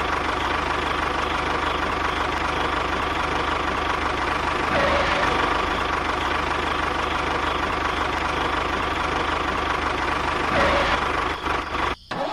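A motor or engine running steadily at a constant speed, cutting out briefly near the end.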